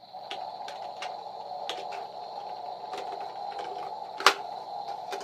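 A small motorized mechanism runs after the button is pushed for the rocket launch, with a steady whine and irregular clicking. There is one loud click about four seconds in.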